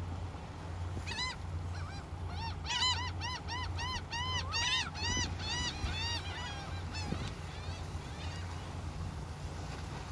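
A bird giving a fast run of harsh, honking calls, about four or five a second, with a few single calls before and after. A steady low hum lies under it.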